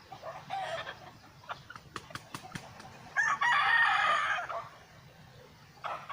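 A rooster crows once, about three seconds in, with some clucking and a few sharp clicks before it.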